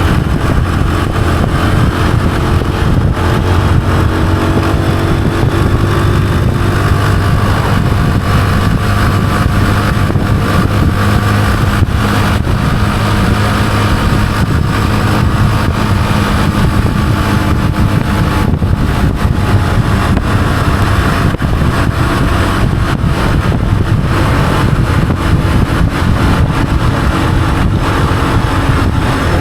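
Honda CG125's single-cylinder four-stroke engine running steadily while the motorcycle is ridden along, its note drifting slightly up and down, over a steady rush of wind and road noise.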